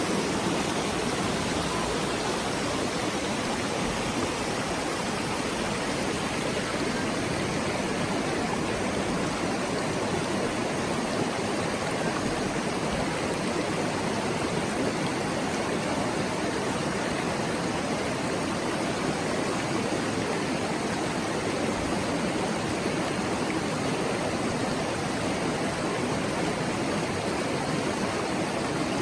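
Mountain stream flowing over rocks: a steady, even babbling of water with no break or change.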